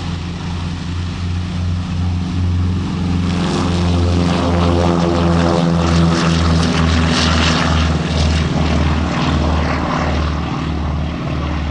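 Lockheed Hudson's twin radial piston engines at takeoff power during its takeoff run, a steady propeller-aircraft drone with a regular pulsing throb. It grows louder about three seconds in as the aircraft comes closer, then eases slightly near the end.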